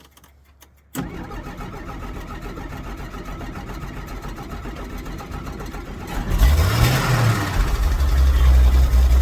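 A 1963 Jeep Gladiator's engine being cranked by the starter for about five seconds, a hard start, then catching about six seconds in, revving up briefly and settling into a steady run. A few faint ticks come before the cranking begins.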